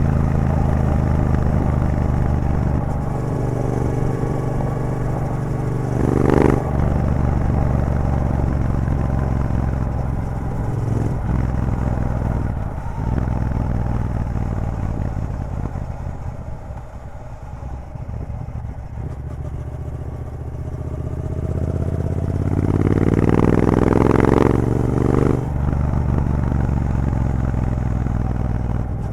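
Triumph Bobber's 1200 cc parallel-twin engine running through an aftermarket Vance & Hines exhaust with the catalyst removed, while riding. It pulls steadily, the revs drop away through the middle, then climb again with a rising note from a little past the twenty-second mark, with a few brief sharp blips along the way.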